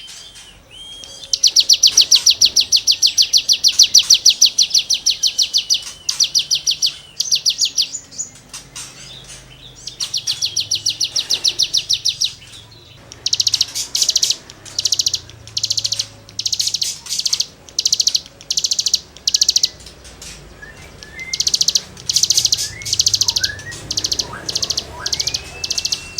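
A cigun songbird singing rapid, rasping, high-pitched trills. One long trill runs about five seconds, then comes a string of shorter bursts with brief gaps between them. A few faint short whistles are heard near the end.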